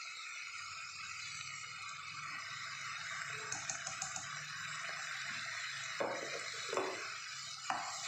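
Chopped onions and tomatoes with masala powder sizzling steadily in hot oil in a pan, with a few short knocks of a utensil against the pan near the end.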